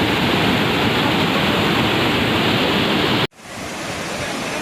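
Waterfall rushing, a steady, loud roar of falling water. About three seconds in it cuts out for an instant and comes back somewhat quieter.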